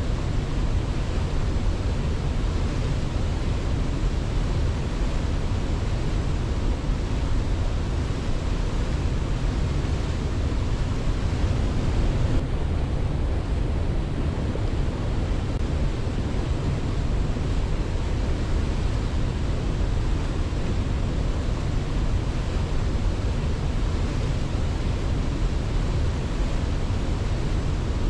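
Waterfall rushing steadily: a dense, even roar of falling water, heaviest in the low end, with no birdsong or other distinct sounds over it.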